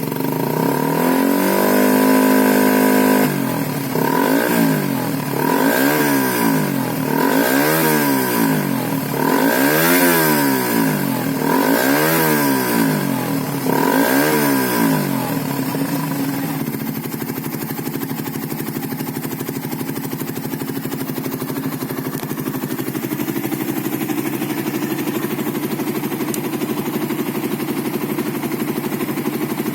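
Fuel-injected Suzuki Satria F150's single-cylinder engine through an aftermarket WRX GP5 V2 exhaust. It is revved up and held for a couple of seconds, then blipped six times about two seconds apart, then settles into a steady idle before rising again at the very end.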